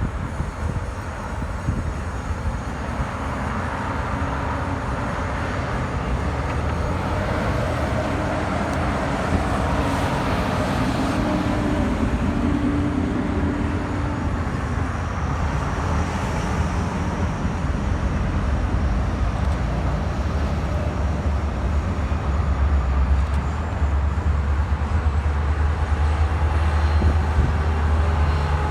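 A freight train hauled by diesel-electric locomotives runs past with a steady low rumble of engines and rolling cars, growing louder toward the end.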